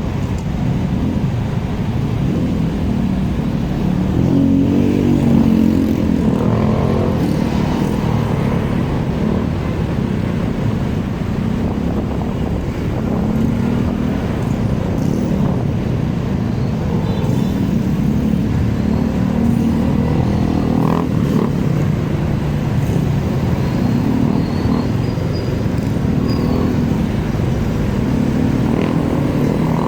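Motorcycle engine running on the move, its pitch rising and falling several times with the throttle, over a steady low rumble of road noise.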